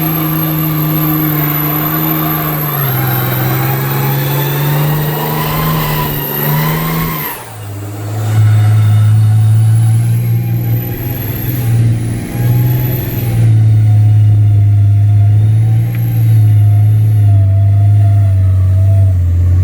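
Mega truck's engine running under way, heard from inside the cab: a loud steady drone that steps down in pitch about three seconds in, drops away briefly about seven seconds in, then comes back lower and louder, with a thin high whine over it.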